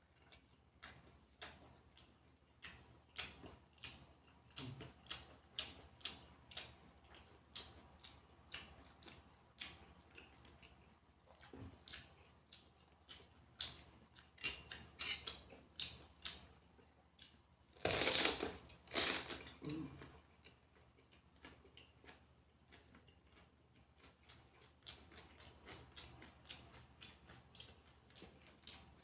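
Close-up eating sounds: a string of short, crisp clicks and crackles from chewing and handling food, with light clinks of dishes or cutlery. There are two louder bursts a little after two-thirds of the way through.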